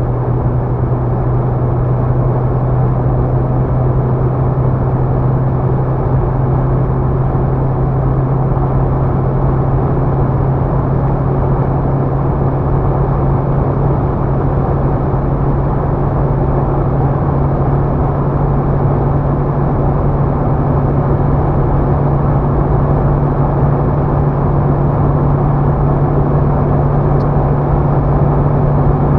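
Renault Mégane II's 1.5 dCi four-cylinder diesel engine droning steadily under acceleration at high speed, its pitch rising very slowly as the car gains speed toward the top of the 0–200 km/h run, over steady wind and tyre noise.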